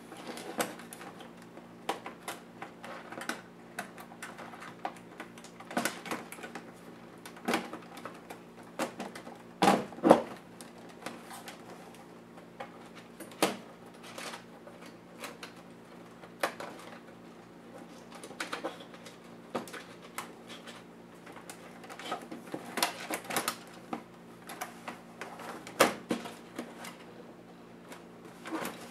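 Irregular clicks and taps of plastic and metal laptop parts being handled and pried apart during disassembly, with a couple of sharper knocks about ten seconds in, over a steady low hum.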